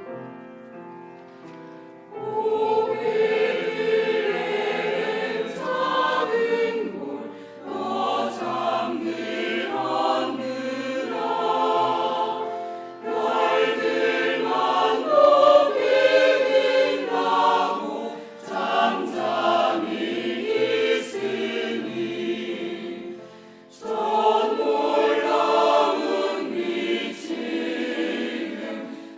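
Church choir singing a Christmas cantata piece in phrases with short breaks between them, coming in about two seconds in after a few held instrumental notes.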